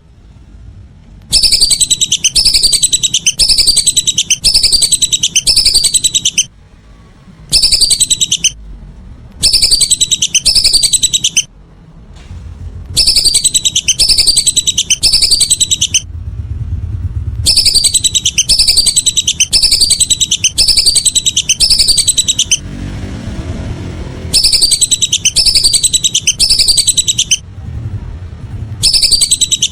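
Lesser whistling ducks calling: rapid series of high, falling whistles in bursts of a few seconds, separated by short pauses. This is a loud recording of the kind played as a lure call.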